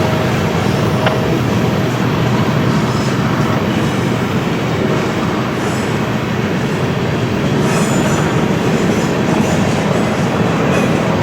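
BNSF freight train's cars rolling past, a steady rumble of steel wheels on rail, with faint high wheel squeals now and then.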